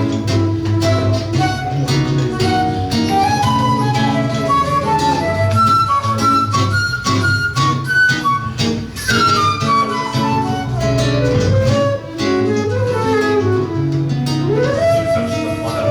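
Flute and seven-string guitar duo playing live. The flute's melody climbs step by step, falls in a quick run about nine seconds in, and rises again near the end, over the guitar's plucked bass line and chords.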